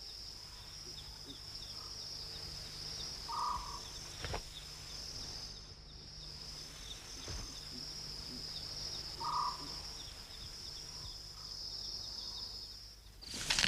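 Steady high-pitched trilling of insects in a night-time natural ambience. A short, low call from another animal sounds twice, about six seconds apart.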